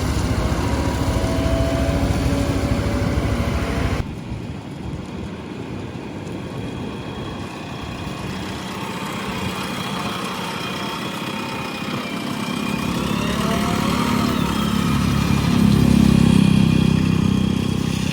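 JCB 3DX backhoe loader's diesel engine running while digging. The sound drops suddenly about four seconds in, then the engine works up under load to its loudest near the end, with a faint whine that rises and falls midway.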